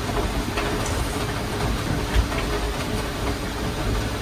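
Heavy rain falling steadily: a dense, even hiss with a low rumble under it and a few light ticks of drops.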